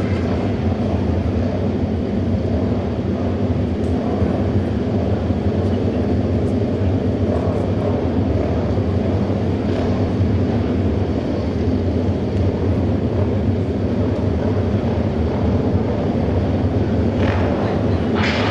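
Auto race motorcycle engines running in a steady, continuous drone.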